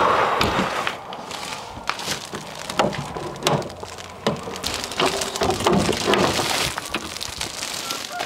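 Dry wood shavings rustling and crunching as they are handled, with many scattered sharp clicks.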